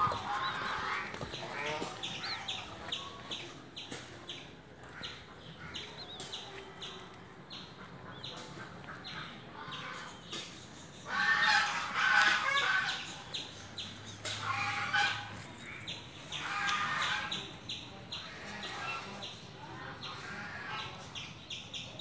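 Birds clucking and calling in short, pulsed bouts. The loudest bout comes about halfway through.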